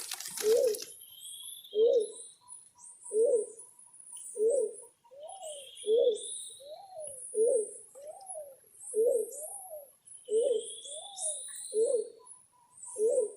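A dove cooing over and over, short low coos about once a second, some of them rising and falling. High, thin chirps of small birds run underneath, with a few longer rising calls.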